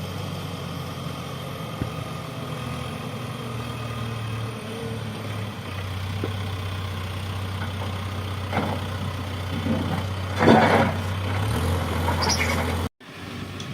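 Diesel engine of an earthmoving machine running steadily, with a louder noisy burst about ten seconds in. The engine note drops slightly just after, and the sound cuts out briefly near the end.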